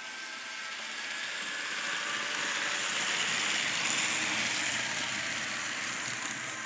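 N scale model train running past, its wheel and mechanism noise swelling to a peak about halfway and then fading.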